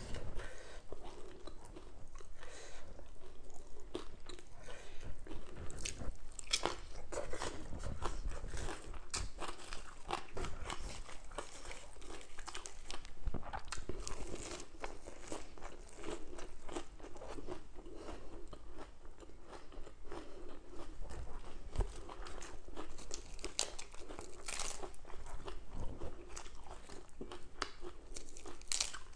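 Close-up crunching and chewing of raw lettuce leaves: irregular crisp bites and wet mouth crackles, one after another.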